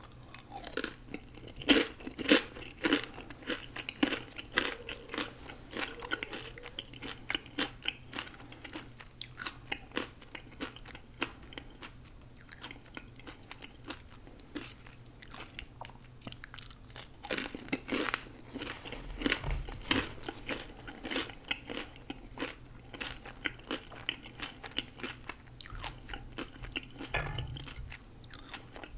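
Close-miked eating: a person biting and chewing crunchy food, with rapid wet clicks and crisp crunches. The crunching is busiest in the first few seconds and again a little past halfway.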